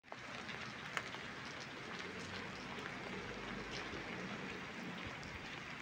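Steady rain falling on wet pavement: an even hiss with scattered drop ticks and one sharper tick about a second in.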